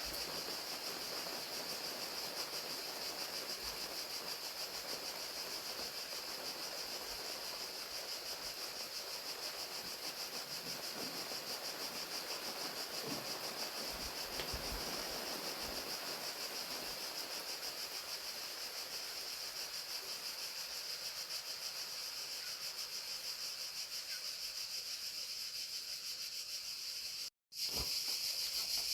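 Crickets chirping in a steady, continuous chorus over the even hiss of falling rain. Near the end the sound cuts out for a moment; when it returns the crickets are louder and the rain hiss has mostly gone.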